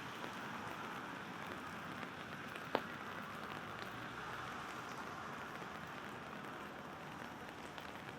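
Steady rain pattering on an umbrella, with one sharper drop striking it just under three seconds in and a few lighter ticks.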